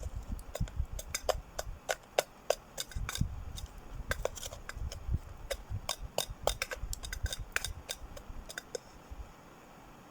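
Dry twigs and small wood snapping and crackling at a campfire that is being coaxed to catch: many sharp, irregular cracks over low handling rumble, stopping about nine seconds in.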